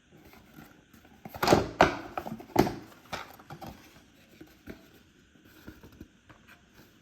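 Packs and packaging being handled on a surface: a cluster of knocks and rustles in the first few seconds, then fainter scattered taps.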